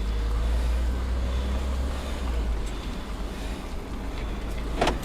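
Low, steady rumble of a car's engine and road noise heard inside the cabin, heavier for the first two seconds or so.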